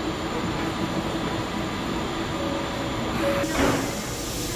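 Steady rumble and hum of a train standing at an underground station platform, with a brief louder sound about three and a half seconds in.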